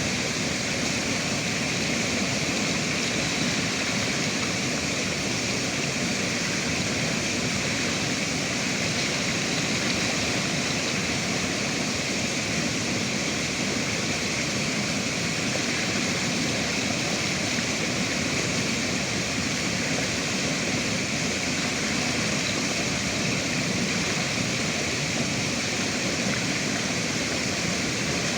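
River water flowing and rushing, a steady even wash of noise with no breaks.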